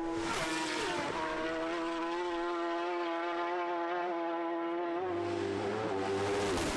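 Racing motorcycle engine at high revs, holding a steady high pitch with brief dips about a second in and near the end.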